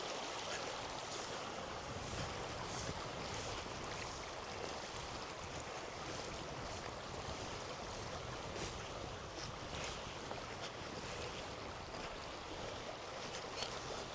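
Steady rushing of a river or stream, with faint small ticks and rustles over it.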